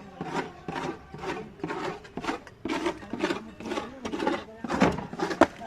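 Rhythmic scraping of a hand tool worked back and forth at construction work, about three strokes a second.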